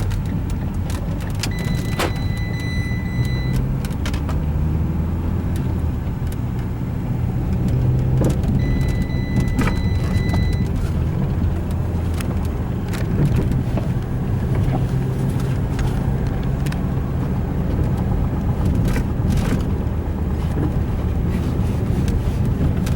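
Fiat Linea's engine and road noise heard from inside the cabin on a test drive, the engine pitch rising and dropping as the car is driven up through the gears. Twice a steady high beep lasts about two seconds.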